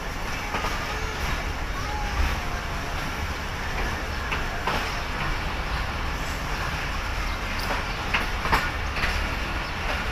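Passenger coach of a departing train rolling slowly out of the station, heard from the side of the coach: a steady low rumble with scattered clicks and knocks from the wheels and running gear, more frequent in the second half.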